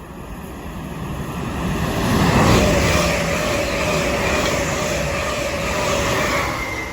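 Train passing through a station at speed: its rumble builds, peaks about two and a half seconds in and stays loud, with a whine that drops slightly in pitch, then starts to fade near the end.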